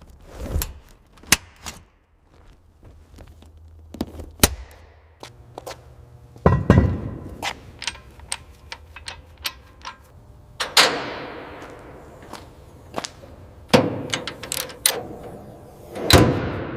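Sharp knocks and clicks, irregularly spaced, with three louder hits that ring and die away slowly, and a faint low hum beneath the first half.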